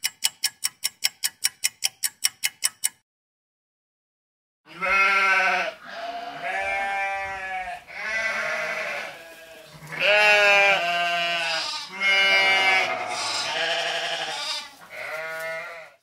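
A clock ticking fast, about five ticks a second, stopping about three seconds in. After a short pause come sheep bleating, about six long calls.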